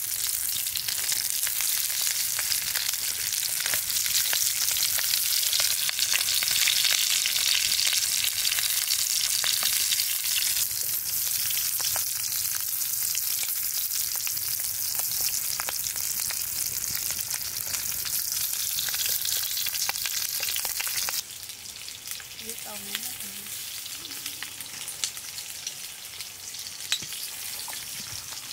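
Food sizzling as it fries in hot oil, a dense hiss full of small pops. About 21 seconds in it drops suddenly to a quieter level.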